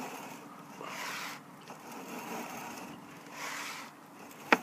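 Sewer inspection camera's push cable dragging through the drain line as it is pulled back: a scraping, rustling noise that swells and fades about once a second, with one sharp click near the end.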